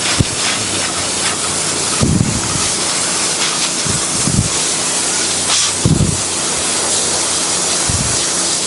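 Pressure washer wand spraying water onto a painted wood deck: a steady, loud hiss, with a few brief low thuds.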